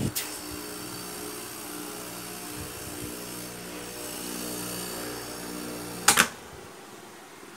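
Energized timer-and-contactor control circuit giving a steady electrical hum. About six seconds in there is a sharp click and the hum stops, as the circuit switches off.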